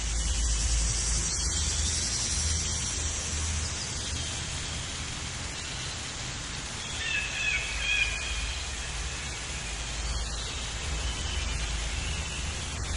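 Outdoor background noise, a steady hiss with a low rumble, with a few brief bird chirps about seven seconds in.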